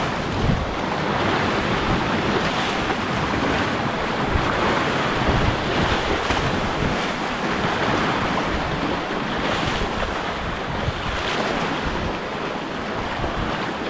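Sea waves surging and washing on a rocky shore, with wind buffeting the microphone.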